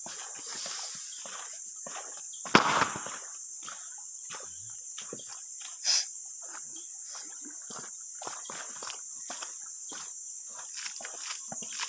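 Steady high-pitched insect drone, with scattered rustles and clicks and two louder knocks, about two and a half and six seconds in.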